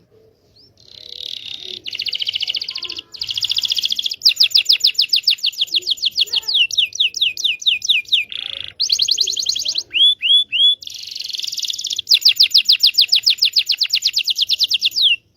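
Canary singing a lure song: buzzy rolls and fast trills of repeated notes at about nine a second, broken by three short whistled notes about ten seconds in, then another long trill that cuts off suddenly near the end.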